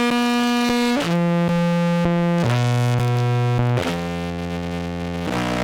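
Contrabass clarinet, amplified through a pickup and fuzz and compressor pedals, playing a slow line of held notes about a second and a half each, stepping down in pitch over the first three notes. The tone is buzzy and rich in overtones.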